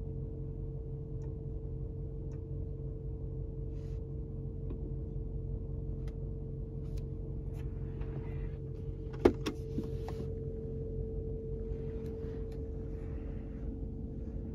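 Steady low hum in a car's cabin with a steady mid tone, and faint ticks; about nine seconds in a single sharp click stands out, followed by two fainter clicks.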